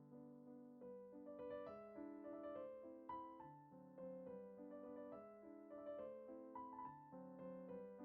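Quiet background piano music: a gentle melody of struck notes over lower chord notes.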